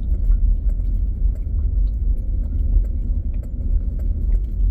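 Pickup truck running, a steady low rumble.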